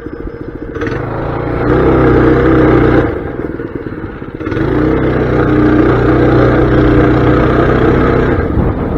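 Mini bike's small engine running under throttle while being ridden: it picks up about a second in, eases off for a moment about three seconds in, then pulls steadily again before backing off near the end.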